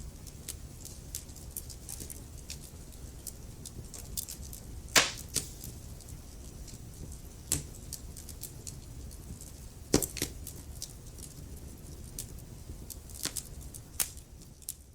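Wood fire in a fireplace crackling: a steady run of small snaps over a low rumble, with louder pops now and then, the biggest about five and ten seconds in.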